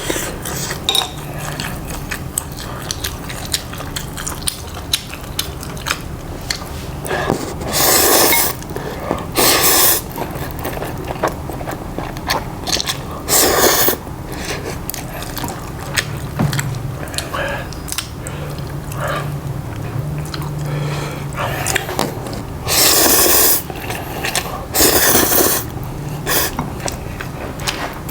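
Close-miked eating: chewing with many small mouth clicks, broken by about five louder, noisy bites.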